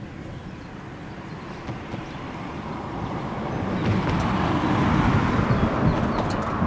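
Approaching express train hauled by an E.402B electric locomotive, its distant rolling noise growing steadily louder and then holding. A thin high whine sounds through the middle of it.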